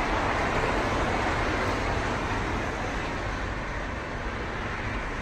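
A car on the move: steady road and engine noise.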